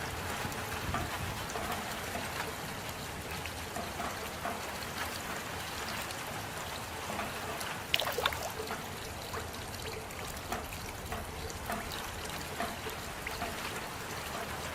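Steady rain with trickling water and many individual drops striking close by. There is one louder drop or splash about halfway through.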